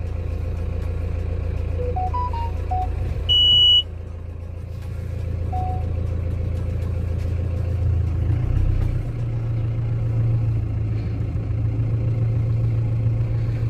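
A motor vehicle's engine running steadily with a low rumble, its note shifting slightly about eight and a half seconds in. A short, loud, high-pitched beep sounds about three and a half seconds in.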